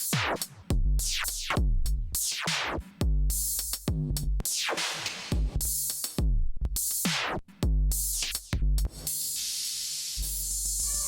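Electronic funk groove from a drum machine and synthesizers (Akai Force, Elektron Model:Samples and Moog Werkstatt): a heavy kick-driven beat with steeply falling synth sweeps about once a second. About nine seconds in, the beat drops out into a sustained hissing wash.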